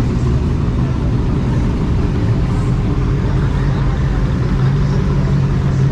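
Motor vehicle engine running steadily, a constant low-pitched drone with a rumble underneath.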